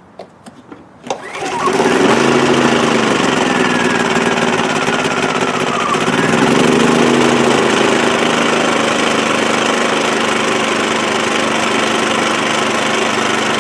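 WEN 56235i inverter generator being started: a few sharp clicks, then its small four-stroke engine catches about a second in and runs, its speed swinging up and down a couple of times before settling into a steady run. The engine is fitted with a high-altitude carburettor conversion kit.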